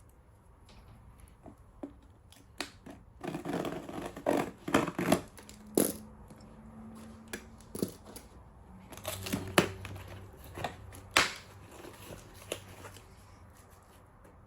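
Packaging being opened and handled: irregular tearing and crinkling with sharp clicks and knocks, busiest around four to six seconds in and again around nine to eleven seconds in.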